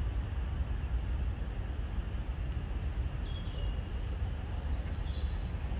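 Steady low outdoor rumble, with a few faint, high bird chirps about three to five seconds in.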